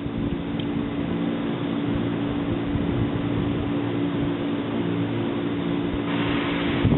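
JR East 185 series electric train giving off a steady, even hum. A short burst of hiss comes near the end.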